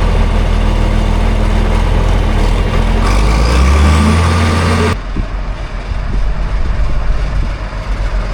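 A vehicle engine running steadily, rising in pitch about three seconds in. The sound cuts off suddenly about five seconds in, and a quieter rumble with wind noise follows.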